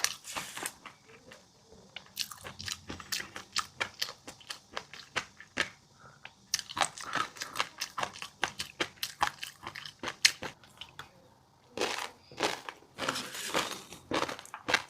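Close-miked ASMR eating of fish roe and crunchy spicy seafood: rapid crisp crunches and tiny pops in runs, with brief pauses about a second in, about six seconds in, and near eleven and a half seconds.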